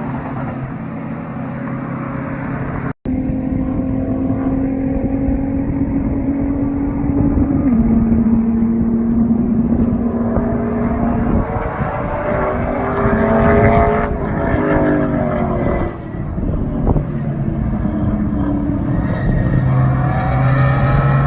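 Race car engine running at speed, its pitch rising and falling with throttle and gear changes. The sound breaks off completely for an instant about three seconds in.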